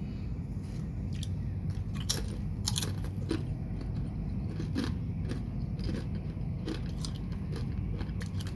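Crunchy chips (keripik) being bitten and chewed close to the microphone: irregular sharp crunches, clearest around two to three seconds in, over a steady low background rumble.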